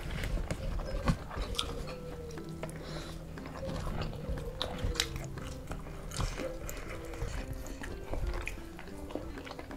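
Close-up eating sounds: fried duck and rice eaten by hand, chewed and bitten, with many small crisp clicks and smacks. Faint background music with a stepping melody runs underneath.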